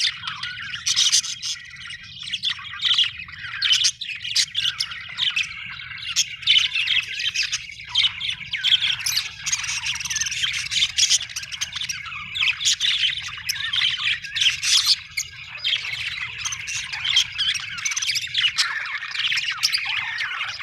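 Budgerigars chattering: a steady run of overlapping chirps, warbles and sharp squawks.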